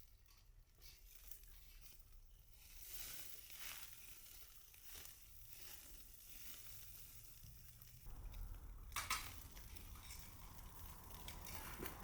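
Faint crackling from a wood fire burning in a kamado-style fire pit, with a sharp crack about nine seconds in.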